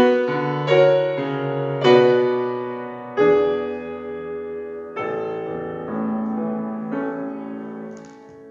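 Solo piano playing slow chords, each struck and left to ring and die away; the sound grows softer about 8 seconds in as the last chord fades.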